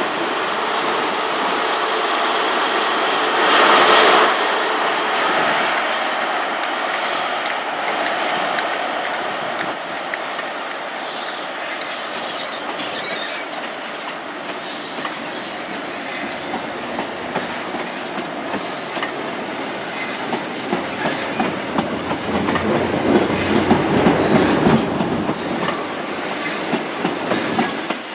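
High Speed Train (InterCity 125) pulling out, its diesel power cars running and the coaches rolling by. The sound is loudest about four seconds in, and the wheels click rhythmically over rail joints in the later part.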